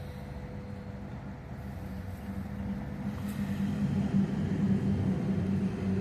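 An approaching train's diesel locomotive, a low engine rumble that grows louder from about three seconds in.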